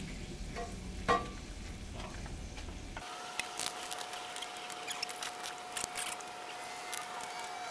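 Ground beef with red beans and rice sizzling in a frying pan while it is stirred, with a sharp metallic clink of the utensil on the pan about a second in. About three seconds in a low hum drops out and a faint steady whine sits under the sizzle.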